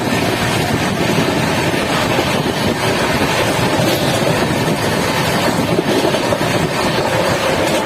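Steady loud rushing noise of the Sealdah Rajdhani Express running at speed, mixed with wind and storm noise.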